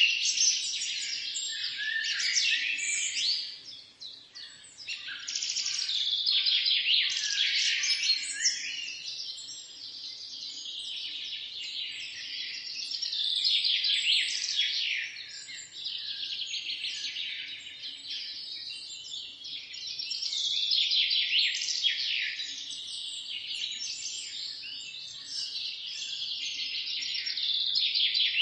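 Birds chirping together in a dense, continuous chorus of quick, high twitters, thinning briefly about four seconds in.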